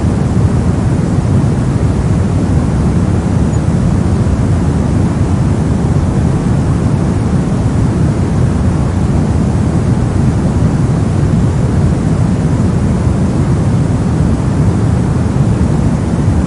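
Steady brown noise: an even, loud, unchanging rumbling hiss with most of its energy in the low end.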